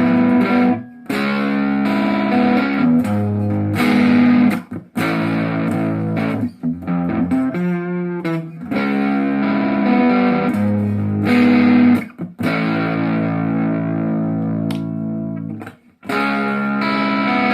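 Semi-hollow electric guitar, a Chinese replica of a Gibson ES Les Paul, played on a crunch, lightly overdriven amp sound. Chord phrases are cut off by sharp mutes about a second in, near five seconds, around twelve seconds and near the end.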